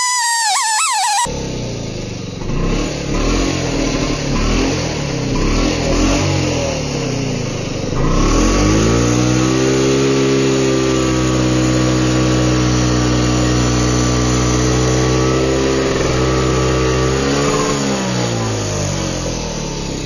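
A brief warbling tone cuts off about a second in. Then a chainsaw with a ripping chain and beam-milling attachment runs unevenly at lower speed, revs up about eight seconds in and holds steady at high revs while ripping along a red pine log, dropping back near the end.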